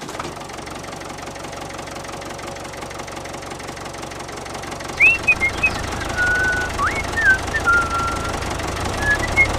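A miniature toy tractor's small motor running with a steady, fast rattle. From about halfway through, thin whistling chirps that slide up and then hold sit over it.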